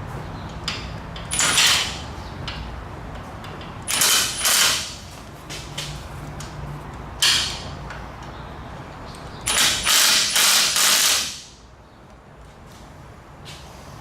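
Mechanic's tool work on a truck's exhaust manifold bolts: about six short, harsh bursts of mechanical noise, three of them close together near the end, over a steady low hum.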